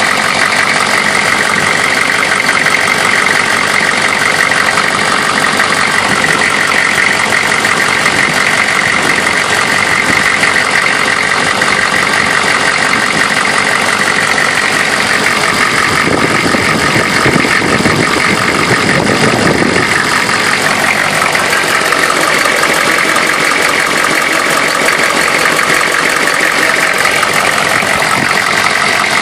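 1994 Chevrolet's 6.5-litre turbo-diesel V8 idling steadily, with a few seconds of extra lower-pitched sound a little past the middle.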